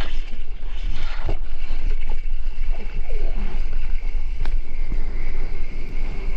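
Offshore wind buffeting the microphone: a steady low rumble with a few short knocks.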